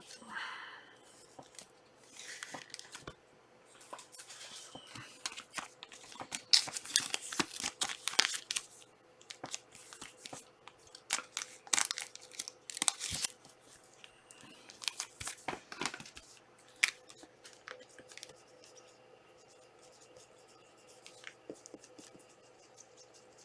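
Foil trading-card pack wrappers being torn open and crinkled by hand, in several bursts of tearing and crackling, followed by lighter handling clicks near the end.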